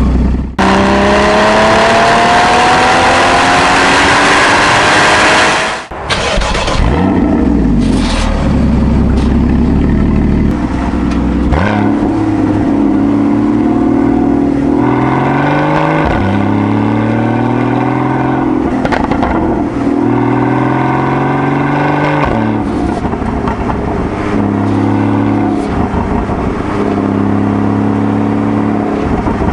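Porsche 981 Boxster GTS's naturally aspirated 3.8-litre flat-six through its stock exhaust. It revs in one long rising pull for about five seconds and cuts off sharply, then gives a series of shorter revs, stepping up and down and holding at steady engine speeds.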